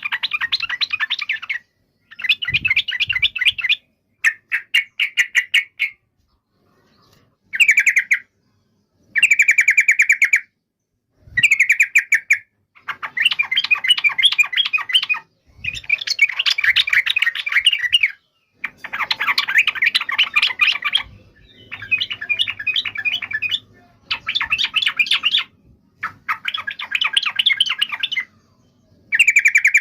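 Yellow-vented bulbul (trucukan) singing: loud, bubbly chattering phrases of quick notes, each one to three seconds long, repeated over and over with short pauses between them.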